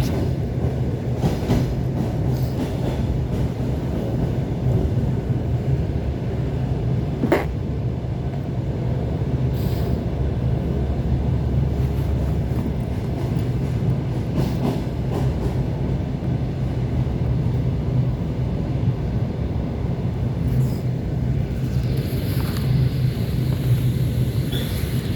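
ET2 electric multiple unit running between stations: a steady low rumble and hum, with a few sharp clicks from the wheels, the clearest about seven seconds in.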